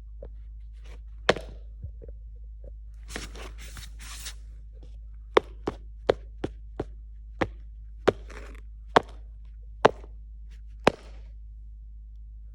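A series of sharp knocks or taps, about a dozen, most of them coming half a second to a second apart in the second half, over a steady low hum, with a brief hiss about three seconds in.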